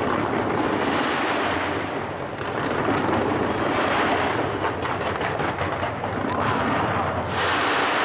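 Fireworks going off in a dense, continuous barrage: many overlapping bangs with crackling pops, loud and steady, jumping up in level right at the start.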